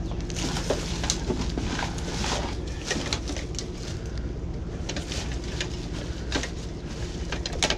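Rustling, scraping and small clicks of junk being handled as a tangled cord is pulled free, over a steady low hum.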